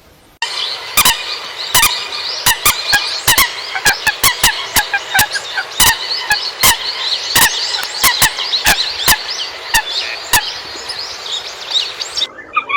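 A flock of common coots calling together: a dense chorus of many short overlapping calls with frequent sharp clicks, starting abruptly about half a second in and cutting off just before the end.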